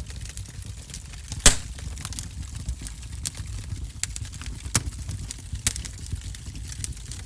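Wood fire burning in a fireplace: irregular sharp crackles and pops over a low rumble of flame, with one loud pop about a second and a half in.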